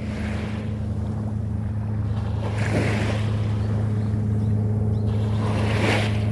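A motor's steady low drone, with two swelling rushes of noise over it, about two and a half and five and a half seconds in.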